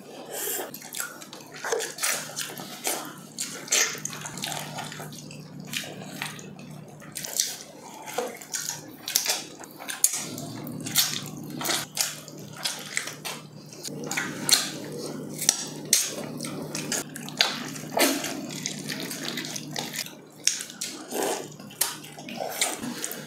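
Close-miked wet eating sounds: two people chewing and smacking their lips on soft braised pork leg eaten by hand, many short wet clicks at an uneven pace. A steady low hum runs underneath.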